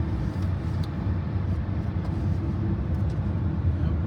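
Steady low rumble of a vehicle driving at speed: road and engine noise.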